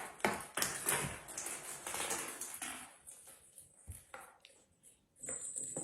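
Scuffling and tapping of cats playing with a ball on a floor: a dense flurry of quick patters over the first three seconds, then a few scattered taps and a short rustling scuff near the end.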